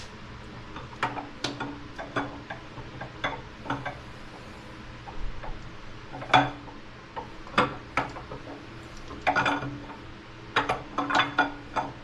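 Metal engine parts and hand tools clinking and clanking as an engine block is worked on, with irregular sharp knocks and a few quick clusters of clinks.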